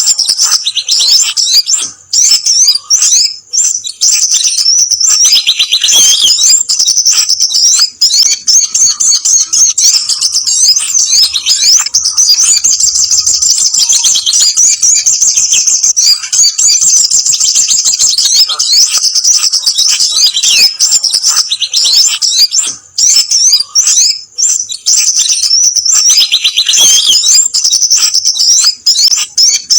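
Bird-lure recording of sogon (sogok ontong) and kemade calls: a dense, loud run of very high, rapid chirps and trills with only a few brief breaks, made to draw wild small birds in.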